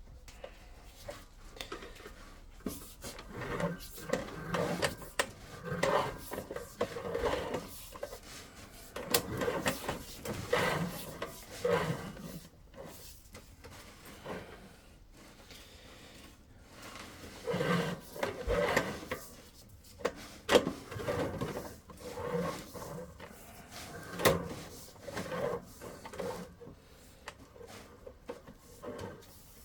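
Drain inspection camera's push-rod being drawn back out of the pipe and onto its reel: irregular rubbing, scraping and knocking in spells of a few seconds with quieter gaps between.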